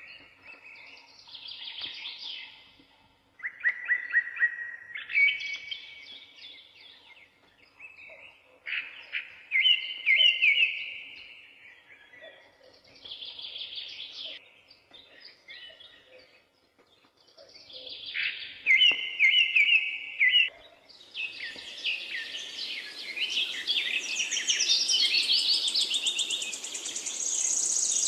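Birds singing: separate phrases of quick chirps and trills every couple of seconds, turning into a denser, louder chorus over a steady hiss about three-quarters of the way through.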